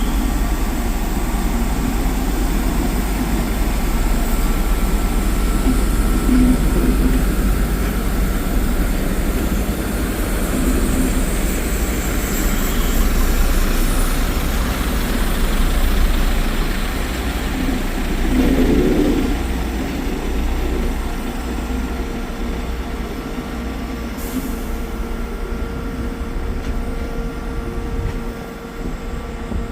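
Train running past with a steady rumble and noise of wheels on rail, easing off in the last few seconds.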